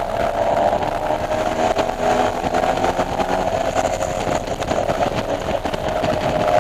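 BMW E46 M3's S54 straight-six engine running at high revs on track, its note holding fairly steady, with a fainter lower tone wavering through the middle and a haze of wind and road noise.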